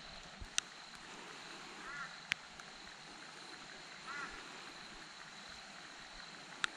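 Two short calls from a bird, about two seconds apart, over a faint steady high tone. A few sharp clicks are the loudest sounds.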